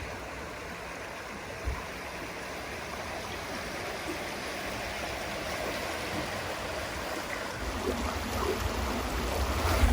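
Steady rushing of running water, with one soft thump near the start and a low rumble building over the last couple of seconds.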